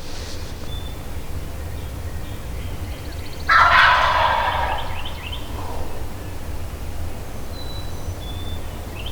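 Wild turkey gobbler gobbling once, about three and a half seconds in, a loud rattling call lasting about two seconds.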